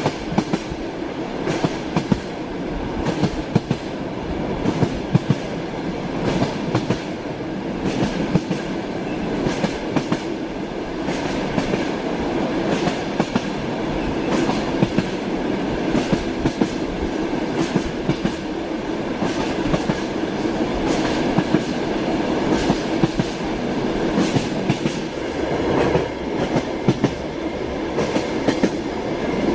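Train running at speed: a steady rumble with the repeated clickety-clack of wheels knocking over rail joints.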